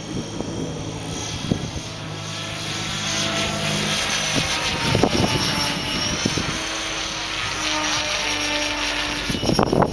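Flybarless Align T-REX 600 radio-controlled helicopter in flight: a steady rotor and motor drone whose pitch shifts as it manoeuvres, over a rush of wind noise.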